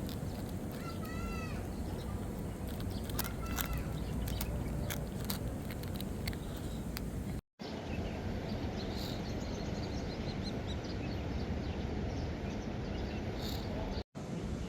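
Outdoor ambience: a steady low rumble with a few short bird chirps scattered through it, the sound cutting out for a moment about halfway through and again near the end.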